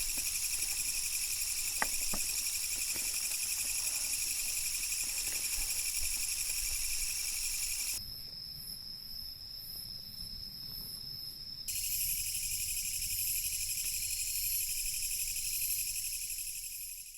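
Crickets and other insects trilling in a steady, high-pitched chorus. The chorus changes suddenly about eight seconds in, with the lower layer dropping out for a few seconds, then returns.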